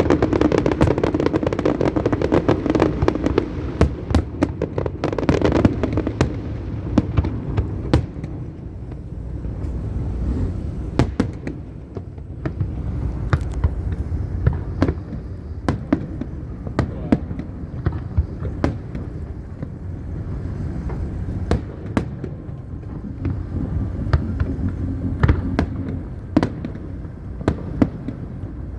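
Aerial fireworks display going off: a dense run of bangs and crackles for the first several seconds, then sparser sharp reports over a steady low background noise.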